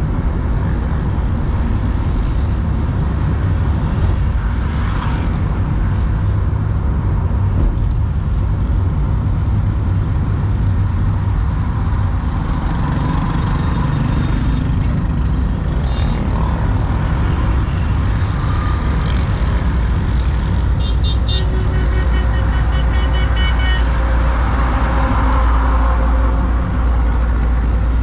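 Car driving on a road: a steady low rumble of engine and tyre noise. About three quarters of the way in, a high pulsing beep sounds for a few seconds.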